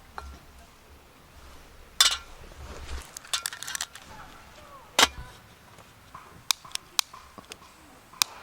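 Sharp metallic clinks and knocks of camp cookware being handled: single strong ones about two and five seconds in, a quick cluster between them, and several lighter ticks near the end.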